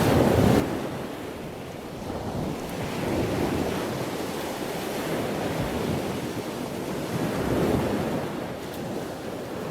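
Wind buffeting the microphone over the wash of sea waves, a steady rush that swells and eases every couple of seconds.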